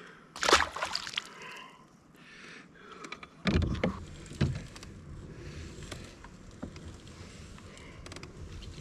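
Water splashing around a fishing kayak, with two dull knocks on the hull about three and a half and four and a half seconds in, then a steady low rush.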